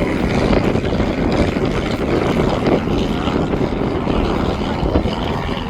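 Small private jet's engines running loud, a steady rushing roar.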